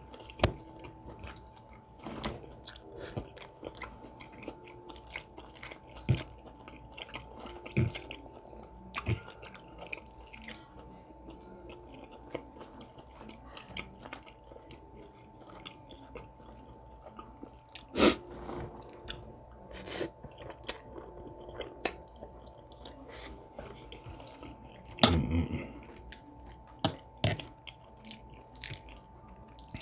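Close-miked chewing of spaghetti, with wet mouth sounds and scattered sharp clicks of a metal fork against the plate, a few of them louder.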